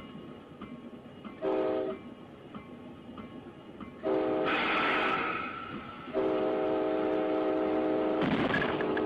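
Locomotive air horn sounding a short blast, then another, then a long held blast through the second half. A loud rush of noise comes about four and a half seconds in, alongside a faint steady ringing tone.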